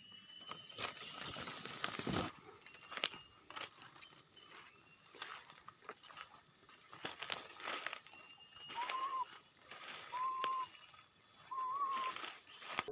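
Outdoor ambience: a steady high-pitched insect drone with scattered crunching and clicking of leaves or twigs being handled. In the second half come three short whistled bird notes, each rising and falling, about a second and a half apart.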